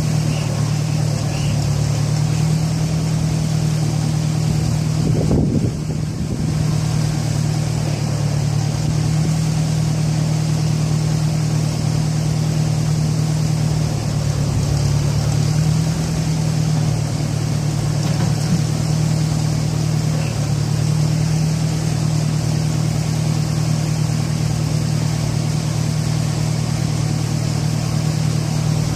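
An engine running steadily, its pitch shifting slightly a few times, with a brief louder surge about five seconds in.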